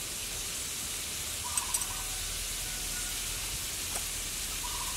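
Steady sizzle of garlic, ginger, chilli, pork and mushrooms frying in a wok, with a few faint clicks.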